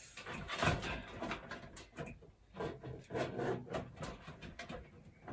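Handling noise of cables and parts being moved about inside a PC case: scattered light clicks, taps and rustling at irregular intervals.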